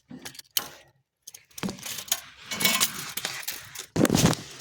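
Metal tape measure clicking and rattling against the cast-iron firebox of a small stove as it is measured, in short irregular clinks with a louder clatter about four seconds in.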